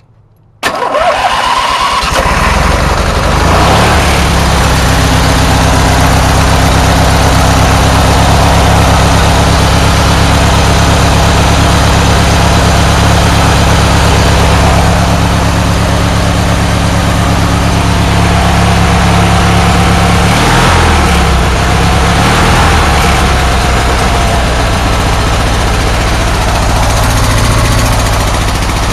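Riding mower's newly fitted engine starting up about half a second in and settling into steady running, with a brief dip and change in engine speed about twenty seconds in.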